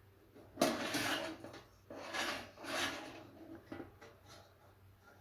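A small toaster oven's metal rack and tray scraping as they are slid along the oven's rails. There are three scrapes, the first and longest about half a second in, followed by fainter rubbing.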